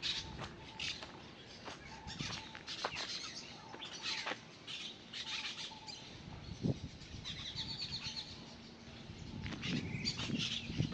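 Small birds chirping, with a quick trill of repeated high notes about seven seconds in.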